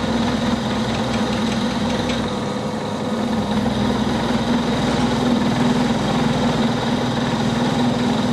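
Milling machine running under load, a large second-hand milling cutter cutting into a bar held in the vise, with coolant squirted on. A steady mechanical hum, which the machinist calls not very nice, but it is cutting.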